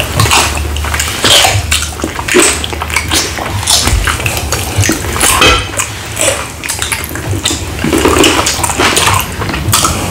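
Close-miked wet chewing and lip-smacking of two people eating fried peppered cow feet with their fingers: a dense run of short sticky smacks and clicks.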